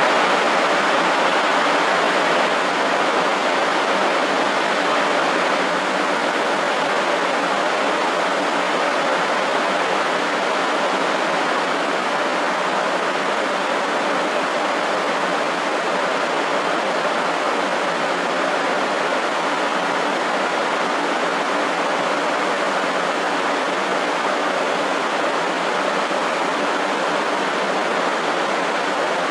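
Steady rushing hiss of a 500 Series Shinkansen rolling slowly into the platform and standing there, easing off a little over the first few seconds and then holding level.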